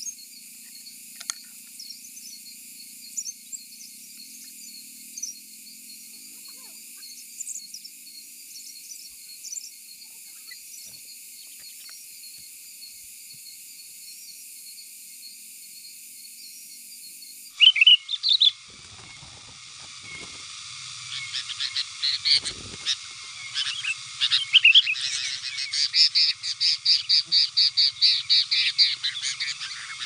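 Birds calling: faint scattered chirps at first, then from a little past halfway two loud notes and busy chirping that builds into a rapid run of sharp notes, about three or four a second, near the end.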